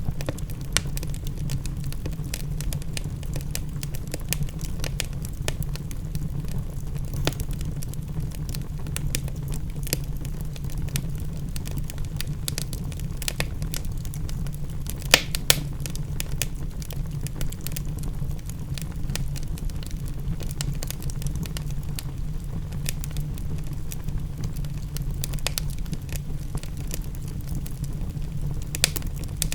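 Wood fire in a fireplace crackling with dense small snaps over a steady low rumble, with two louder pops about halfway through and another near the end.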